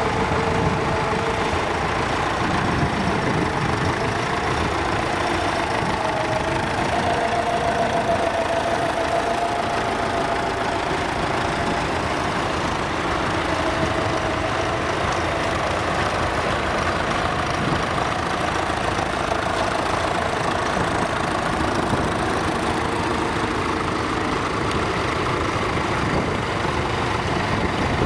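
Vintage Nuffield tractor engines running steadily, their pitch drifting slightly up and down.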